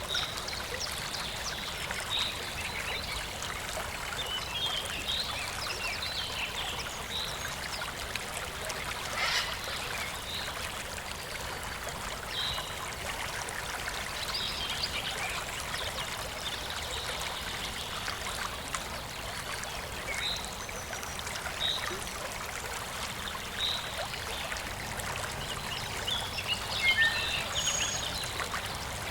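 Stream water running steadily, with birds chirping over it: short calls every few seconds and a busier burst of chirping near the end.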